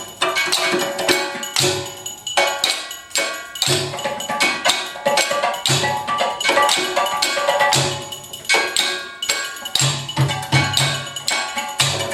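Live percussion-led music: rapid sharp struck hits over ringing pitched tones, with a low bass note coming in every couple of seconds.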